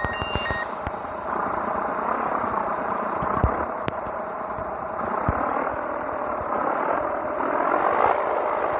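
Scania 113 truck's diesel engine running steadily, with a constant drone, a short hiss about a quarter second in, and a few scattered knocks and clatters.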